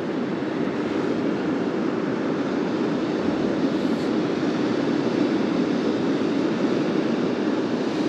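Steady rushing noise of surf breaking on a beach, with no distinct events.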